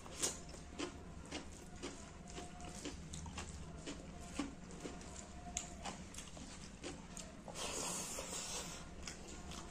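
Close-miked eating sounds: chewing and wet mouth clicks of a person eating rice, fish curry and raw cucumber by hand. Near the end a louder, wetter noise lasts about a second as a handful of food goes into the mouth.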